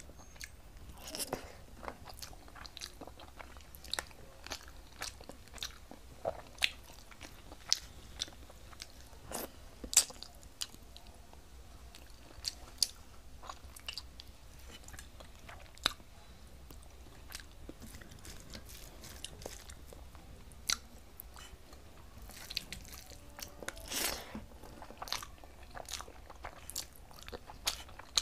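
A person eating rice and fish curry by hand, close to the microphone: chewing with many irregular sharp clicks and smacks, one louder click about ten seconds in.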